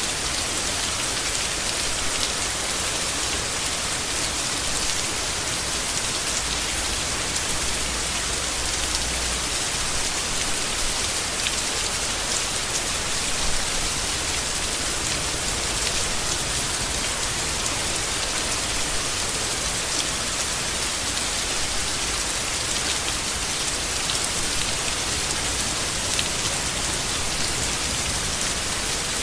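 Steady rain falling, with a dense patter of drops and no break or change.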